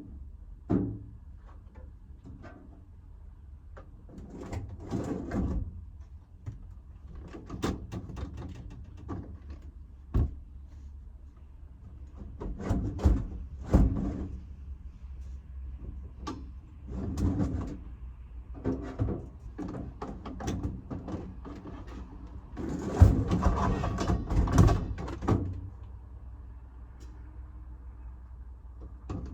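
Scattered knocks, clunks and rustling of things being handled and doors or lids being opened and shut, with a longer stretch of rattling and clattering about 23 seconds in.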